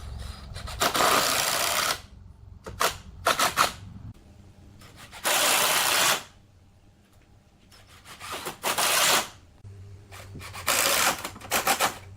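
A power tool running in repeated bursts: several lasting about a second, with short stuttering bursts between them.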